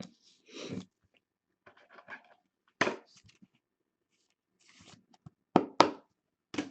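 Trading cards and their packaging being handled: short rustles and a few sharp clicks and snaps, with a quick pair of the loudest near the end.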